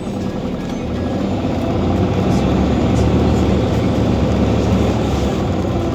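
Scania OmniCity city bus heard from on board, its diesel engine and drivetrain running under way. It gets louder over the first two seconds or so, then runs steadily.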